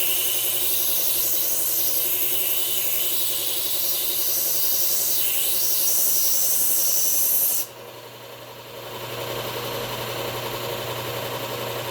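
Knife blade being ground on a belt sharpener: a steady hiss of steel against the abrasive belt for about eight seconds, raising a burr along the edge. The blade is lifted off suddenly, and the belt machine's motor keeps running with a steady hum.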